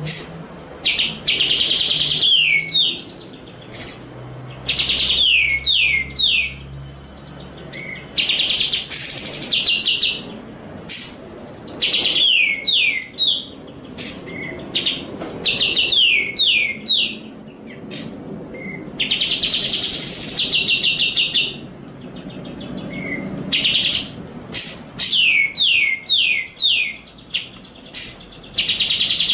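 Songbird singing in bursts with short pauses: each phrase is a rapid run of clear whistled notes, each note sliding downward, mixed with fast high trills, repeated over and over.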